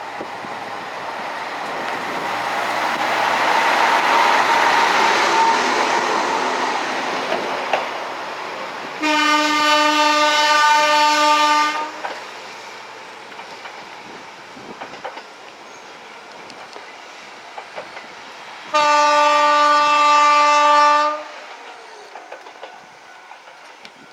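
Diesel railcar running, its noise swelling over the first few seconds and then fading. Then two long horn blasts, each a single steady tone lasting about three and two and a half seconds, some ten seconds apart.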